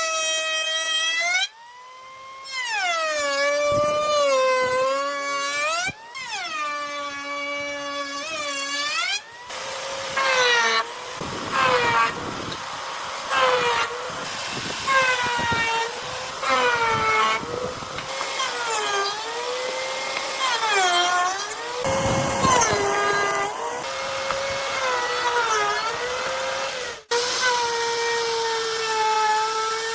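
Electric power tool motor whining at high speed, its pitch dropping repeatedly as it is loaded by cutting into wood and climbing back as it frees up, with rough cutting noise during the heavier cuts.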